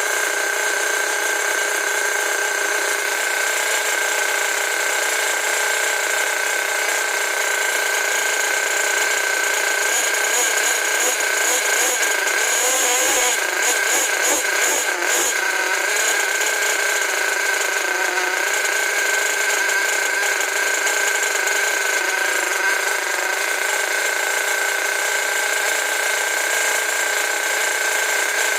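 Small high-speed electric power tool running steadily with a constant high whine. From about 10 to 16 seconds in, the sound roughens with rattling and scraping as the tool works against a part.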